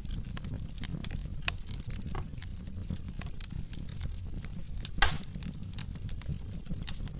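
Wood logs burning in a fireplace: a low steady rumble of flames with frequent small crackles and one louder pop about five seconds in.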